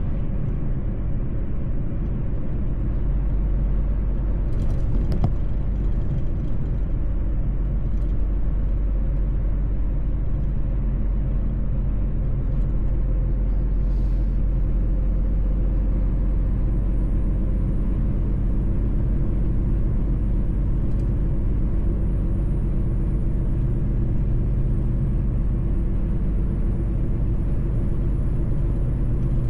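Mercedes-Benz truck driving at a steady speed: an even low engine drone and road rumble. A faint high whine comes in about halfway through.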